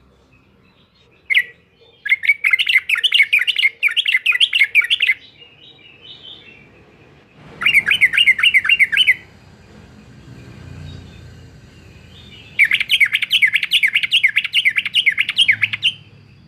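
Yellow-vented bulbul singing its lively 'uklik-uklik' song. A short call comes first, then three bursts of fast chattering notes, each lasting about one and a half to three and a half seconds, with pauses between them.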